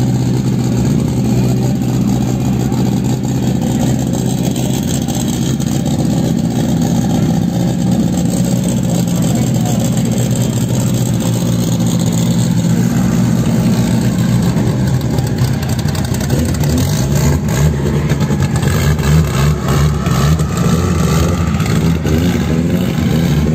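Turbocharged drag cars' engines idling with a steady, lumpy note, then revving harder and unevenly from about fifteen seconds in, with a few sharp pops.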